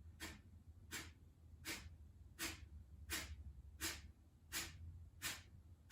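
Kapalabhati breathing: eight short, sharp forced exhales through the nose, evenly spaced a little under a second apart, the slowed pumps at the end of a round.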